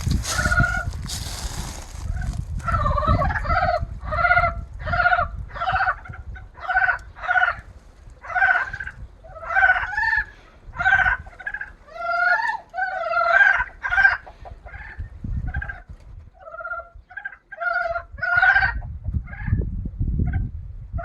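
Frogs calling in chorus: a long run of short, pulsed croaking calls, about one or two a second, that thin out near the end. A low rumble of noise sits under the calls at the start and again near the end.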